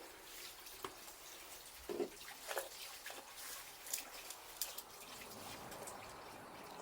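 Wood fire crackling faintly, with a dozen or so irregular sharp pops and snaps.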